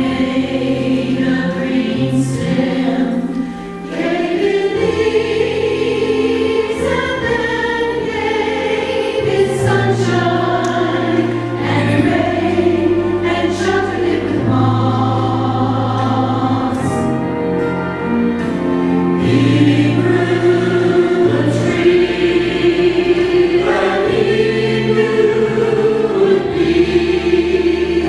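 Church choir singing a sacred piece, with accompaniment holding long low bass notes that change every second or few.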